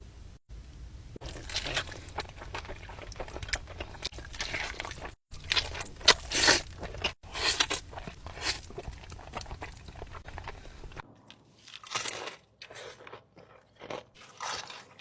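Close-miked crunchy biting and chewing of crispy fried chicken, in several edited bites with brief silent cuts between them, then softer, sparser chewing in the last few seconds.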